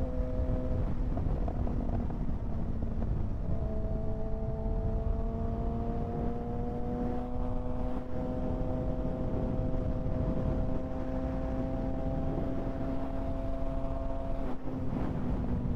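Kawasaki ZX-6R 636 inline-four engine running at a steady cruise, its note climbing slowly, over a constant rush of wind. About fourteen seconds in the engine note briefly breaks off, then picks up again.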